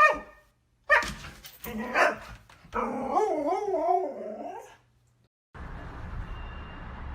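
Siberian husky barking twice after a short yelp, then a long wavering howl-like "talking" vocalization. After a brief gap, a steady low rushing noise begins about five and a half seconds in.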